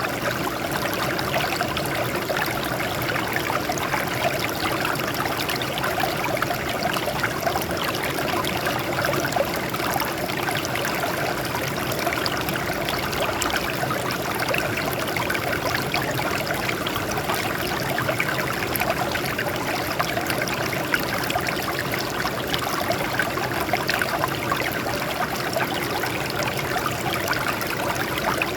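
Water flowing and splashing over rocks in a small stream, a steady babbling rush.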